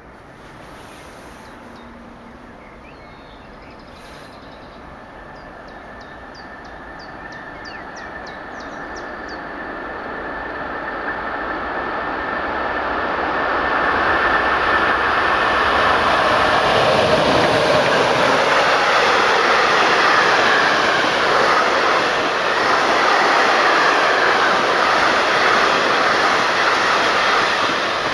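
Electric train hauled by a class 143 locomotive approaching, growing louder over about fifteen seconds, then passing close at full volume with its wheels running over the rails and a steady high whine.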